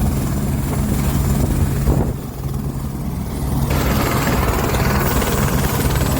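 Helicopter running: a steady low drone with broad rushing noise, the higher noise growing stronger about two-thirds of the way through.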